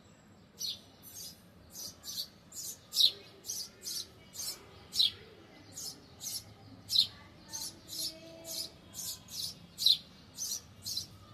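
A small bird chirping over and over on a perch: short, sharp, high notes that drop quickly in pitch, about two a second, in an even, unbroken series.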